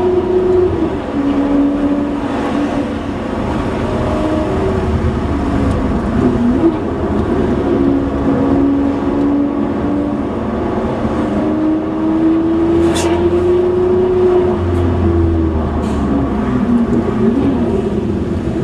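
Ferrari 599's V12 engine through a Kreissieg cat-back valvetronic exhaust, running at moderate revs while driving on the street. Its note drifts gently up and down and drops a step about a second in, with no hard revving.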